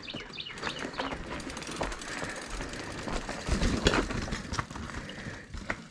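Mountain bike rolling over a rocky trail: tyres crunching on rock, chain and frame rattling with sharp clicks, and a heavier jolt about three and a half seconds in.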